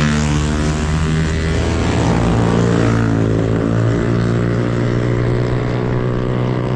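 Motorcycle engine running steadily under way, its note sagging slightly and picking up again about two seconds in, with wind rushing over the microphone.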